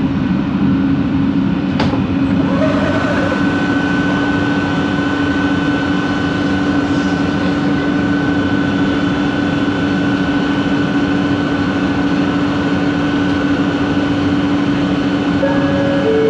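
Kelana Jaya Line LRT car running at speed, heard from inside. The linear induction motor drive sounds a steady low hum and a higher whine that joins about three seconds in, over the running noise, with a single click near the start. Near the end, new motor tones switch on and off.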